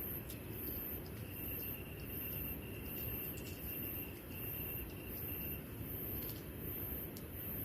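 Insects chirping in a steady rhythm, a very high-pitched pulse repeating a little more than once a second with a fainter trill beneath, over a steady low rushing background and a few scattered clicks.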